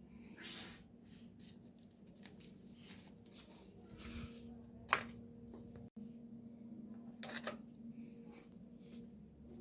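Scattered small clicks and rustling scrapes of something being handled, with one sharp click about five seconds in, over a faint steady hum.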